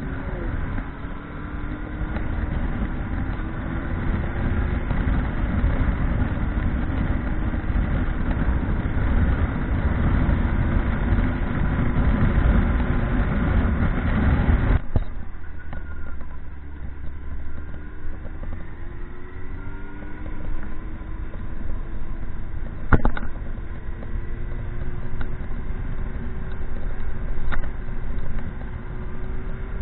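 Motorcycle engine running while riding, its pitch rising and falling slowly with the revs over heavy wind noise. About halfway the wind noise suddenly drops and the engine carries on more clearly, with a couple of sharp clicks near the end.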